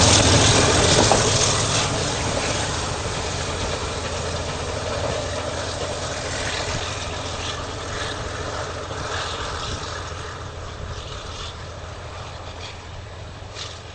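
A train running away into the distance, its engine and wheel noise fading steadily, with a few faint clicks in the second half.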